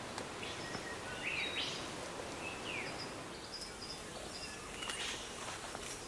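Rainforest ambience: a steady background hiss with a few short chirping bird calls, some rising and falling, and faint ticks.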